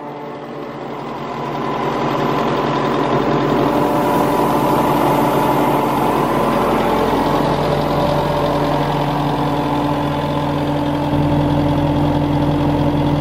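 Mercedes diesel engine of an Atlas Copco XAMS286MD portable air compressor running steadily. It grows louder over the first two seconds, and a deeper drone strengthens about eleven seconds in.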